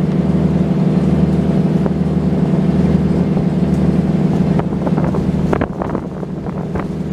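A river cruise ship's engine running with a steady drone. A few light knocks or rattles come through it around five to six seconds in.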